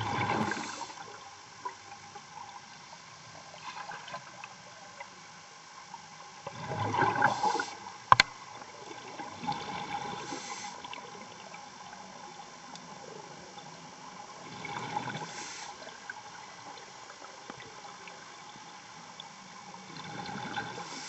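A diver's breathing heard over a diver communications line: a rush of exhaled bubbles every few seconds over a steady hum, with a single sharp click about eight seconds in.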